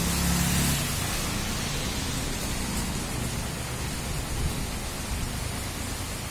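Steady heavy rain falling on foliage and a wet street, an even hiss, with a low rumble in the first second.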